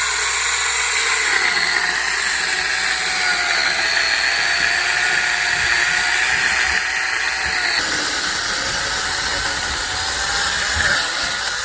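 Angle grinder converted into an electric chainsaw with a bar-and-chain kit, running under load as it cuts through a thick log. The motor whine wavers in pitch as the chain bites into the wood.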